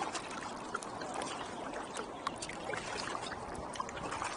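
Kayak paddles dipping into shallow water, with small irregular splashes and drips from the blades over a steady wash of water.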